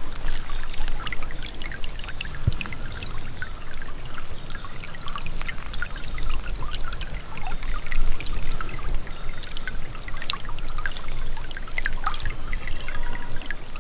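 Small creek trickling and splashing over rocks, a steady run of water with many small irregular splashes.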